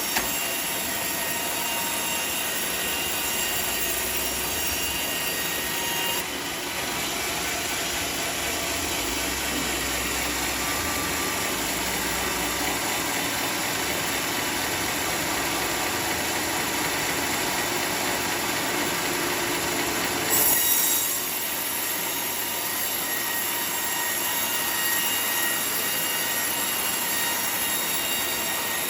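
Sawmill saw cutting teak timber: a steady, dense, high-pitched screech that runs on without pause, changing in tone about six seconds in and again about twenty seconds in.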